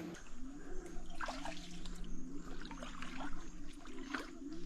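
Shallow salt water trickling and splashing as someone wades and works with their hands in mangrove mud, with a few short sharp splashes. A faint low rising tone repeats about twice a second underneath.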